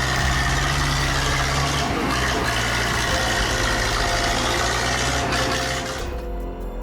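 A heavy machine's engine, most likely a tractor's, running steadily with a low hum and broad mechanical noise. Near the end it fades out and music comes in.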